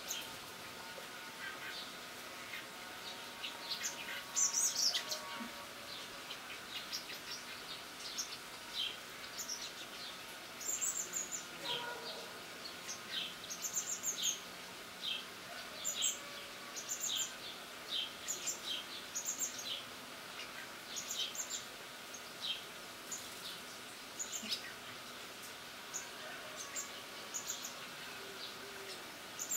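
Birds chirping: short high calls repeated every second or so, with a louder flurry about four to five seconds in, over a faint steady background.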